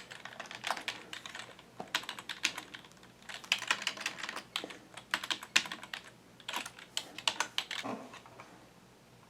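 Typing on a computer keyboard, entering a login: several quick runs of key clicks with short pauses between them, dying away near the end.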